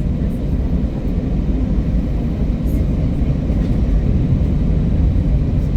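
Steady low rumble of an Airbus A320's engines and airframe, heard from inside the cabin at a window seat.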